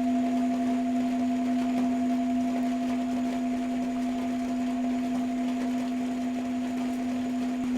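Tibetan singing bowl sounding a steady low tone with a fainter higher overtone that drops out near the end, over a hiss of rain.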